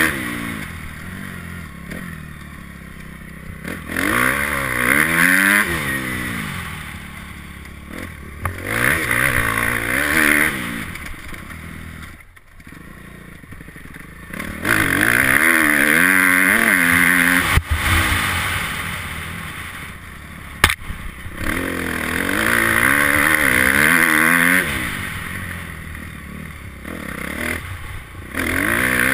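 Motocross bike engine revving hard and easing off over and over, its pitch climbing and dropping with each burst of throttle. The engine almost cuts out briefly just before the middle, and there is a single sharp knock about two-thirds of the way through.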